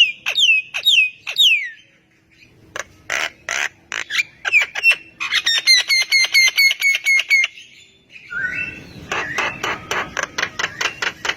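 Javan myna (jalak kebo) calling: a varied string of falling whistles, harsh squawks and clicks, with a fast, even run of repeated notes in the middle.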